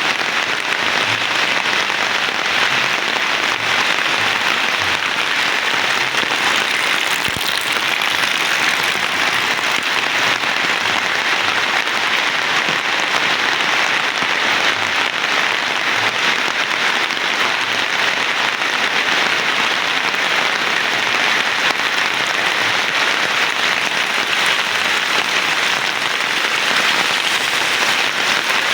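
Heavy rain falling steadily, an even, unbroken downpour with no let-up.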